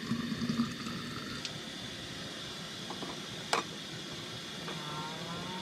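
Water heating for coffee on a wood stove, a steady hiss, with one sharp click about three and a half seconds in.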